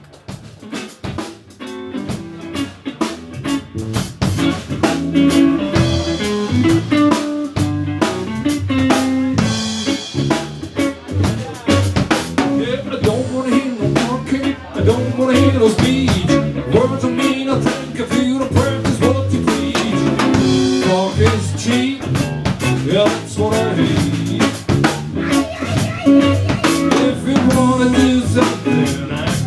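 Blues-rock band playing live: electric guitar over a drum kit with snare rimshots, an instrumental passage without singing. The band comes in at the start and builds to full volume over the first few seconds.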